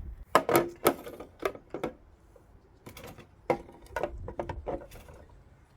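Juicer crunching and cracking through chopped fruit and vegetables: a run of irregular sharp clicks and knocks, with a cluster in the first second and another from about three to five seconds in.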